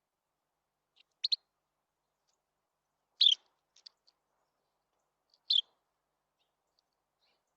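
Small songbird at a feeder giving short, high chirps: a quick double note, then two single calls about two seconds apart, with a few fainter notes between.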